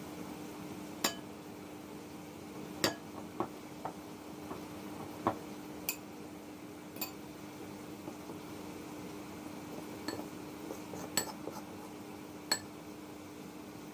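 Kitchen utensils and dishes clinking and knocking against each other about ten times at irregular intervals, some strikes ringing briefly, over a steady low hum.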